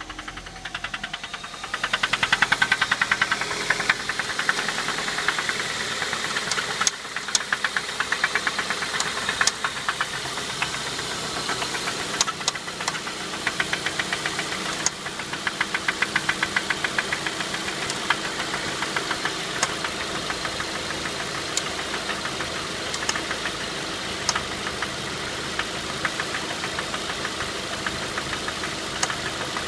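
Ford Focus running with a rapid, regular ticking-knocking noise of unknown cause, loudest a couple of seconds in. Occasional sharper clicks stand out every few seconds.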